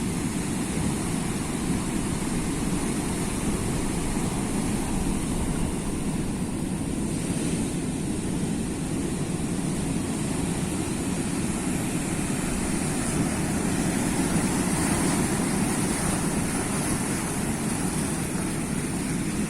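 Sea waves washing in continuously as a steady low rumble with a hiss on top, swelling a little about three-quarters of the way through.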